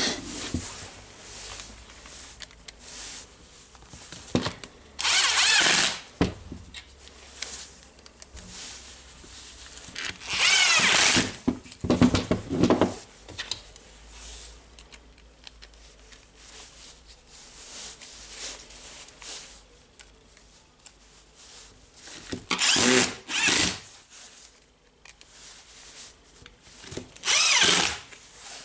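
Small handheld power drill/driver running in about five short bursts of a second or so, with quieter handling of parts between them.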